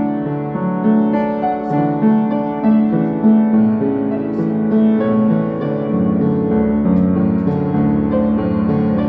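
Slow instrumental piano music with an electric-piano tone, playing a gospel hymn tune in held chords. A deeper bass note comes in about six seconds in.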